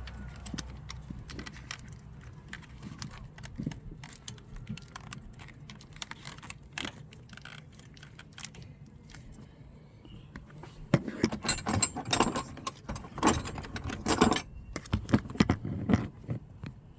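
Metal tools and hardware clinking and rattling during engine-bay work, with scattered light clicks, then a busier run of jangling clinks about two-thirds of the way through.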